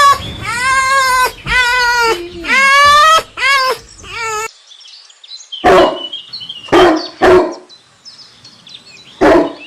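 A dog giving several high, drawn-out whining calls, then, after an abrupt cut, barking four short times.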